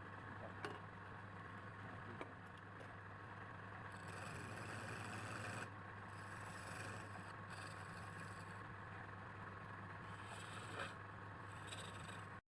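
A steady low electrical hum, with stretches of scraping hiss and a few light clicks, cutting off suddenly near the end.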